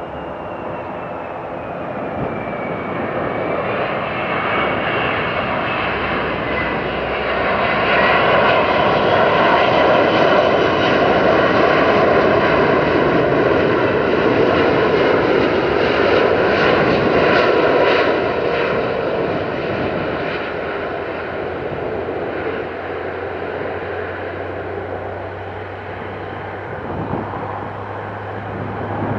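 Airbus A380-861's four Engine Alliance GP7200 turbofans during landing: a steady jet roar with whining tones that shift in pitch, growing louder to a peak about a third of the way in, then slowly fading.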